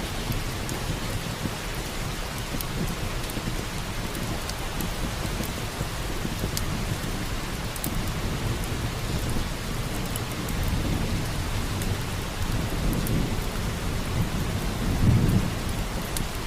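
Steady heavy rain with a low rumble of thunder, which swells briefly near the end. Scattered sharp pops and crackles from a wood fire sound over the rain.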